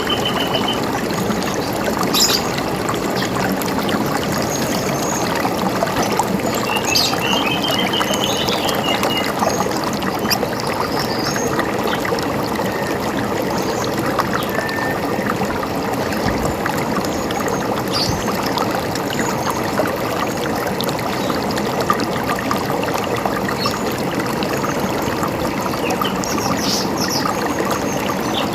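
River water running and trickling steadily. Small birds chirp now and then above it, with a short trill at the very start and a chattering run of calls about seven to nine seconds in.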